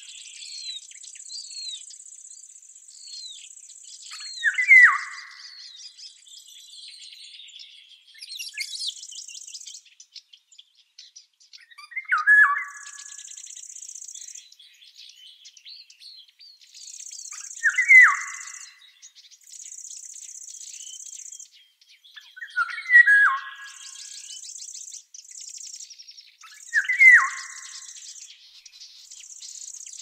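Outdoor birdsong: one bird gives a loud, short falling call about five times, every four to six seconds, among faint chirps from other birds. A high insect buzz keeps starting and stopping in stretches of a second or two.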